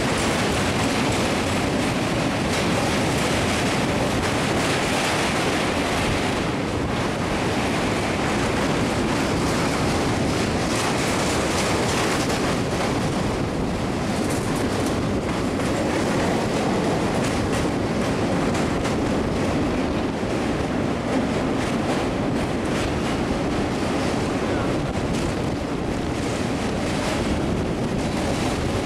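Passenger train running at speed across a steel truss bridge, a steady rush of wheel and rail noise heard from the side of the coach, with wind buffeting the microphone.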